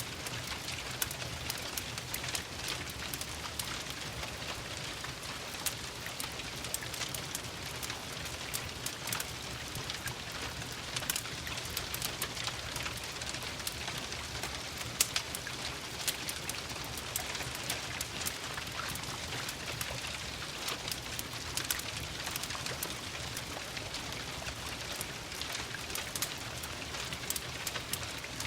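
Steady rain hiss with a wood fire crackling over it, giving frequent sharp pops and snaps at an even, unchanging level.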